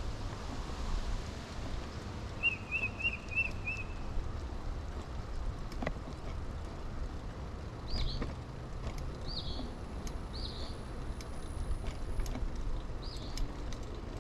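Riding a 2000 Kona Blast mountain bike, with a steady low rumble of tyres and wind. Birds call over it: a quick run of five chirps about three seconds in, then a single call repeated about once a second from about eight seconds on. A few faint clicks sound now and then.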